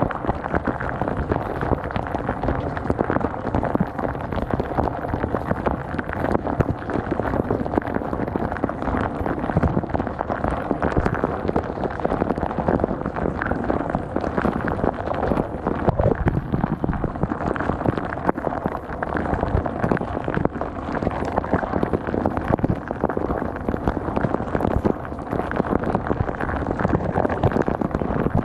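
Dishwasher wash cycle heard from inside the tub: water jets from the spray arm splashing steadily against the dishes and walls, with a constant scatter of small hits as the spray strikes.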